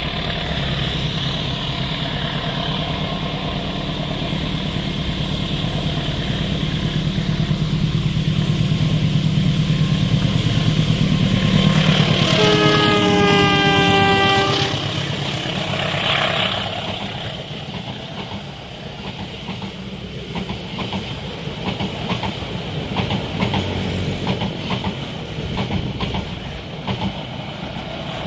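A train approaching and passing at speed: the locomotive's engine grows louder, its horn sounds once for about two seconds around halfway through, dropping slightly in pitch as it goes by, and then the carriages roll past with a rapid clickety-clack of wheels over the rail joints.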